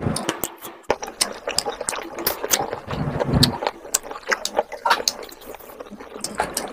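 Close-up wet chewing and lip smacking of someone eating saucy chicken curry by hand, with many quick sharp mouth clicks.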